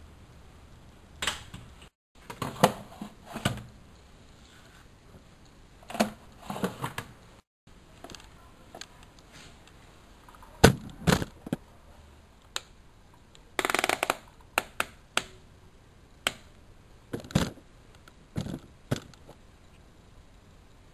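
Irregular sharp clicks and knocks from a washing machine being handled, some in quick clusters, with a longer rattling cluster about 14 seconds in; the drum is not running.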